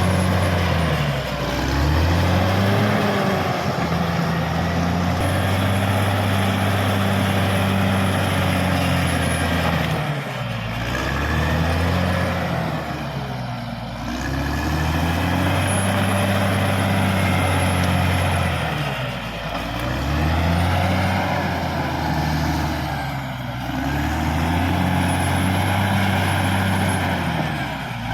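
Caterpillar D6R XL bulldozer's diesel engine working, its pitch sagging and recovering every few seconds as the blade takes and sheds load, with a high whine that rises and falls with the revs.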